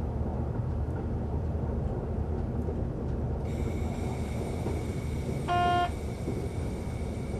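Train running along the track, a steady low rumble from the cab. A faint steady high whine joins about three and a half seconds in, and a short single-pitched tone sounds once for about half a second near the middle.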